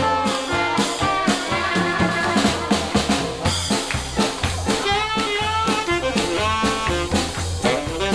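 Live jazz band playing a swing tune with horns, drum kit and bass.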